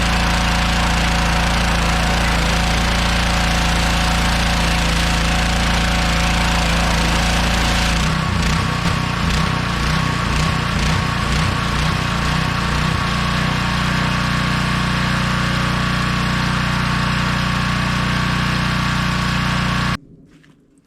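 Small gas engine of a pressure washer running under a steady hiss of water spray. About eight seconds in the engine note pulses unevenly for several seconds, then steadies again. It cuts off abruptly near the end.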